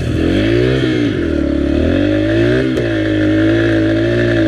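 Dirt bike engine running under way, its pitch rising and falling as the throttle is worked, then holding steadier; one sharp knock about two and three-quarter seconds in.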